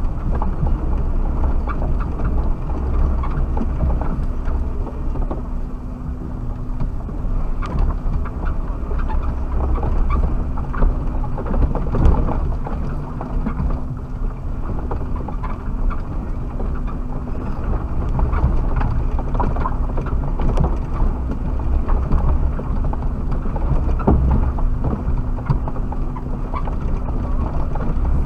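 Suzuki Jimny on the move over rough ground: a steady low engine and drivetrain drone with frequent knocks and rattles as the body and suspension bump along.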